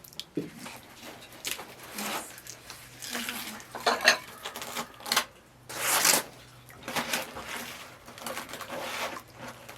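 Spoons clinking and scraping against bowls at a meal: irregular sharp clicks with short scrapes, and one longer scrape about six seconds in.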